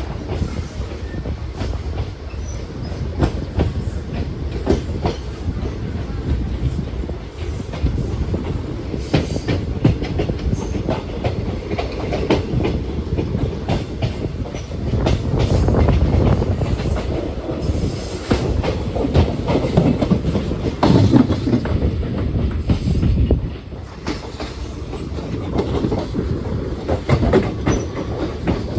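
Train running along the track: a steady loud rumble with many sharp clicks of wheels passing over rail joints. It dips briefly about 23 seconds in.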